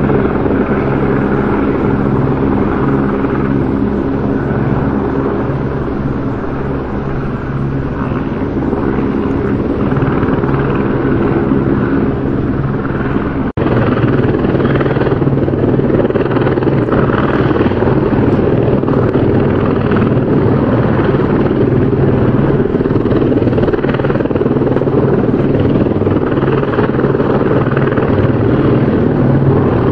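Helicopter rotor and engine running steadily. There is a brief break about halfway through, where the recording cuts to another take that carries on much the same.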